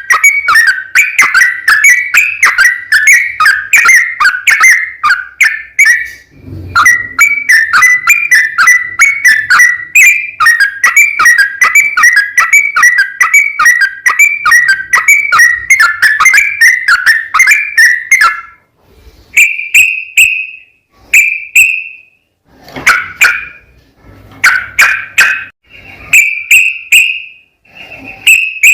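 Yellow-vented bulbul singing a long, fast run of bubbly whistled notes, then breaking into shorter separate phrases with pauses about two-thirds of the way through.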